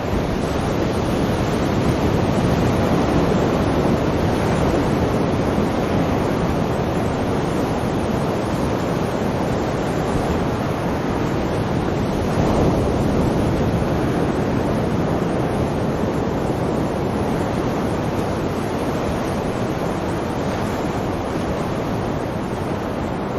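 Sea waves breaking and washing on a shore, a continuous rushing surf that swells gently in loudness, most markedly about halfway through.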